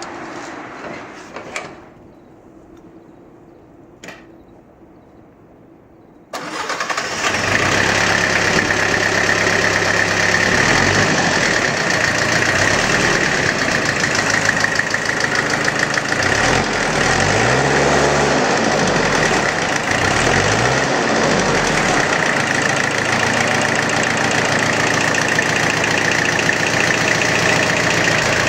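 Mitsubishi MT2201D tractor engine starting abruptly about six seconds in after a quiet stretch with a single click, then running steadily, its pitch dipping and rising a few times midway.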